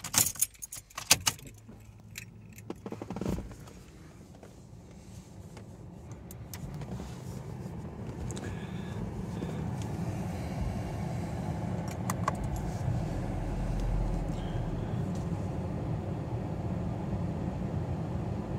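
Keys jangling and clicking as the key goes into the ignition of a Honda CR-Z, then about three seconds in its 1.5-litre four-cylinder hybrid engine starts with a short burst. It settles into a steady idle that grows louder over the following several seconds.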